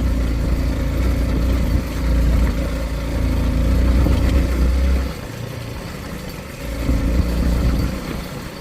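Motorcycle engine running while riding, with a heavy low rumble that drops away about five seconds in and comes back briefly around seven seconds.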